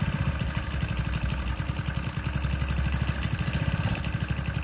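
Small pocket-bike engine running at a fast, even idle, with rapid regular firing; it is still cold, just off choke after starting.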